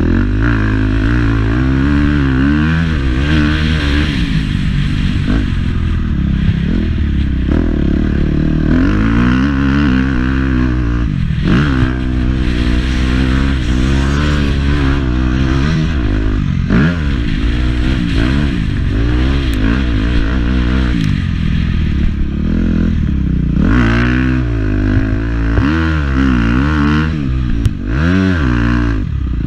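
Motocross bike engine revving hard and falling off over and over, pitch climbing and dropping back repeatedly as the rider accelerates, shifts and backs off around the track, over a steady low rumble.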